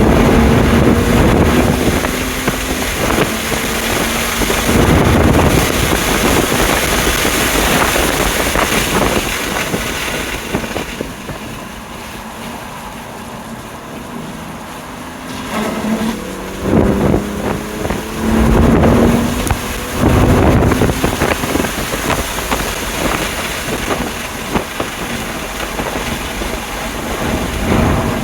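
A BMW M2 Competition's twin-turbo straight-six is driven hard on track, its pitch rising under acceleration, over heavy wind and road noise. About halfway through it drops to a quieter stretch off the throttle, then pulls hard again with rising pitch and several loud surges before settling into steadier running.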